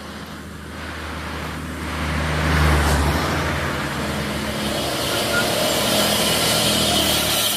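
A truck driving past close by: its low engine note grows louder to a peak about three seconds in, then gives way to steady tyre and road noise.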